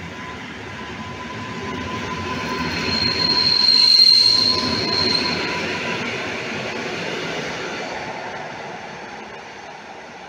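Regional electric multiple unit running past along the platform: wheel and running-gear rumble with a high, steady squeal from the wheels. It grows louder to a peak about four seconds in, then fades as the train moves off.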